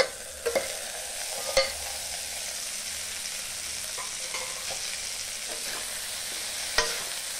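Drumstick pieces with onion and neem-leaf powder sizzling steadily in a kadhai after a low-flame steam under a lid. Sharp metal clinks come as the steel plate lid is lifted off early on, and again near the end as a steel spatula knocks the pan.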